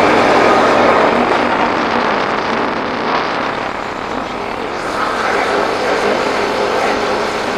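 Wind rush and road noise on a motorbike rider's camera microphone while riding, a steady rough rushing that eases slightly in the middle and picks up again about five seconds in.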